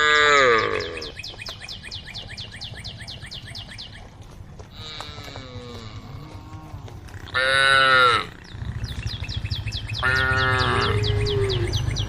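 Cows mooing: a loud moo falling in pitch at the start, fainter moos around the middle, a loud moo about eight seconds in and another near eleven seconds. A fast, even chirping runs behind the calls, with a low rumble in the later part.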